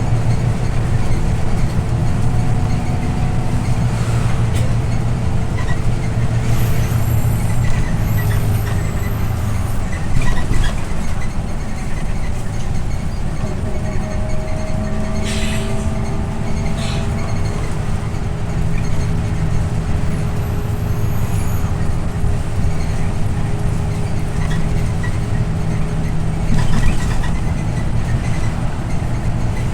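Scania OmniLink I city bus on the move, heard from inside: a steady low engine and road drone, with a few short high squeaks and brief hissing bursts now and then.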